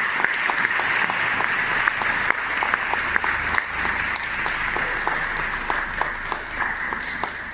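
Studio audience applauding: dense, steady clapping that eases off slightly near the end.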